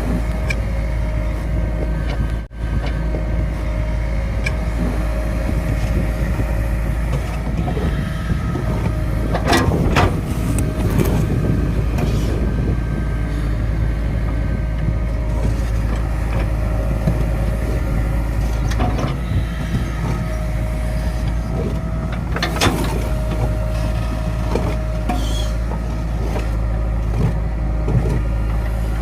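JCB 3DX backhoe loader's diesel engine running steadily, with a steady whine over it and a few short knocks about ten seconds in and again about twenty-two seconds in.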